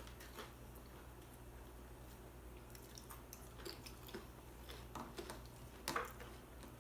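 Faint wet mouth clicks and smacking from eating chips and salsa, a handful of short ticks in the second half, the loudest near the end, over a steady low hum.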